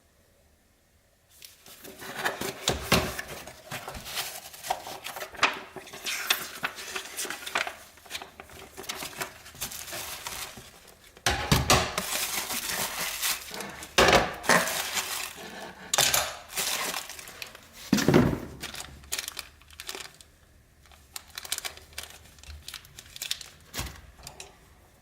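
ICS XAE gas blowback airsoft pistol being handled: a long run of irregular clicks, clacks and metallic clatter of its parts sliding and snapping into place. There are a few louder sharp clacks around the middle.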